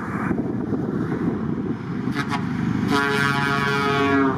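A truck's air horn sounds one steady blast of about a second and a half near the end, over the continuous running of passing truck engines.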